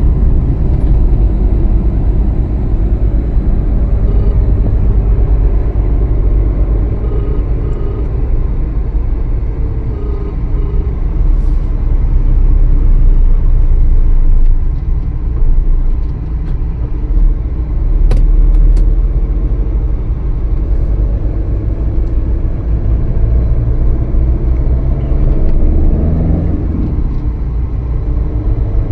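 Steady low rumble throughout, with a sharp click a little past the middle.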